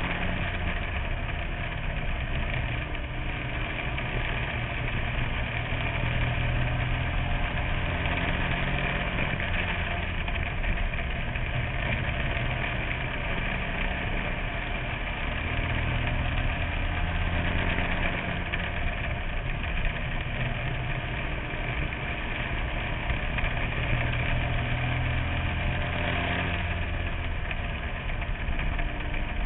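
Small race car engine running, heard from inside the car, steady with slow rises and falls in level every few seconds.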